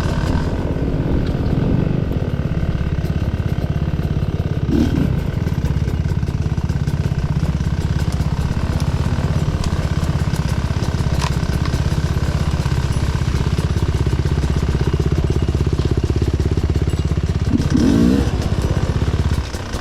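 Off-road enduro motorcycle engine running steadily at low revs under a trail ride, with short blips of throttle that raise the revs briefly about five seconds in and again near the end.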